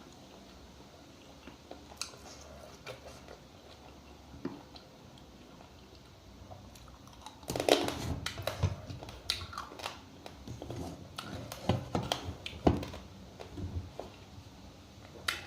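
A person eating close to the microphone: chewing and biting with small clicks. About halfway in it turns into a busy run of sharp clicks and louder mouth sounds.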